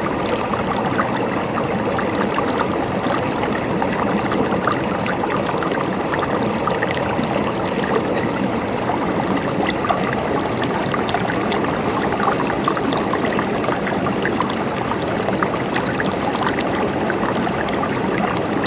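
Water flowing steadily, like a stream running over stones, with small splashes and trickles throughout.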